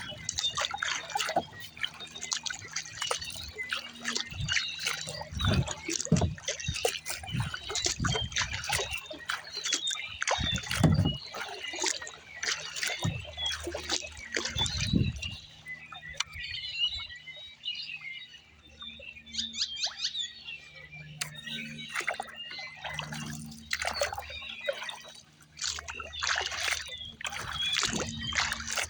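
Kayak paddling: the paddle blades dipping and pulling through the water, with splashing and water trickling and dripping off the blades, and a few duller low thumps now and then.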